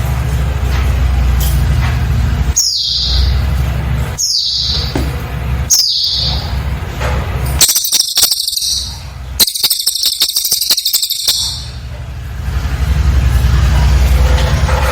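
Cililin bird singing: three high falling whistles about a second and a half apart, then two fast, dense chattering runs, the second about two seconds long. A steady low hum runs underneath, dropping out while the bird sings.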